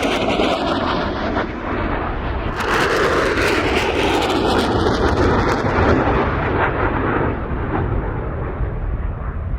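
USAF Thunderbirds F-16 fighter jets flying past with loud, crackling jet engine noise. A second surge comes about two and a half seconds in, and the sound fades toward the end as the jets move away.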